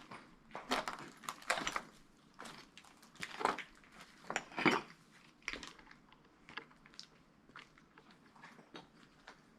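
Footsteps crunching and scraping over rubble and debris on a ruined floor, with scattered clinks of loose pieces, irregular and uneven in strength.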